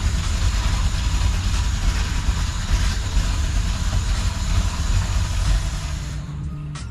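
A vehicle's engine running with a steady low rumble and hiss, dying down about six seconds in.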